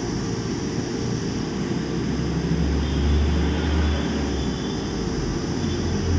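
Steady droning hum of a fan running, with a deeper low rumble swelling up from about two and a half seconds in and easing off a second and a half later.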